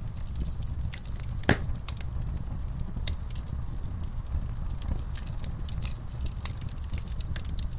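Wood fire crackling in a fireplace: a steady low rumble of burning with scattered sharp pops and snaps, the loudest about one and a half seconds in.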